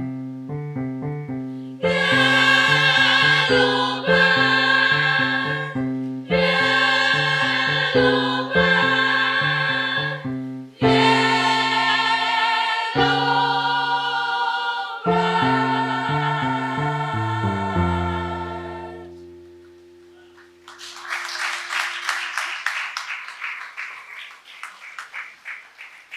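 Female choir singing with accompaniment, closing on a long held chord that fades out about twenty seconds in. Audience applause follows near the end.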